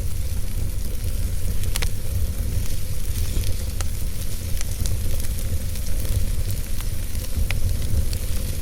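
Wood fire burning in a fireplace: a steady low rumble and hiss with scattered sharp crackles, a louder snap a little under two seconds in and another near the end.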